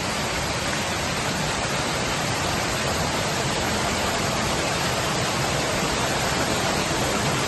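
Heavy rain falling, a steady even rushing hiss with no let-up.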